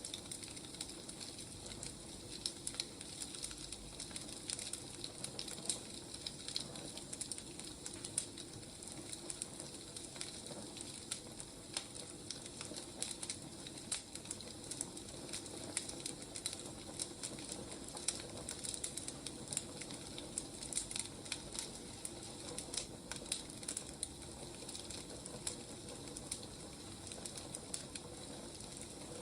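Wood fire burning, crackling steadily with many small, sharp pops over a soft hiss.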